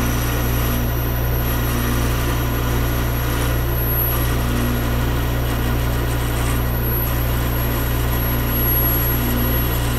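Metal lathe running steadily at about 600 RPM while a high-speed steel parting blade cuts off the workpiece, a faint high whine coming and going over the machine's hum.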